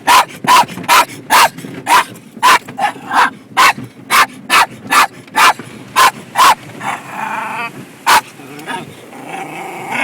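Dog barking in a fast run, about four sharp barks a second, aimed at the car wash brushes. The run stops after about six and a half seconds, followed by a short whine and a single last bark.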